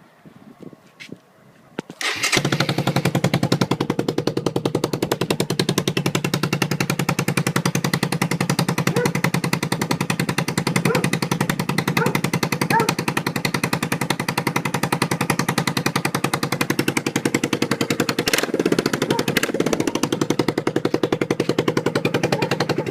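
Suzuki VanVan 200's single-cylinder four-stroke engine running with no exhaust muffler. It starts suddenly about two seconds in and runs at a loud, rapid, even putter, then cuts off near the end.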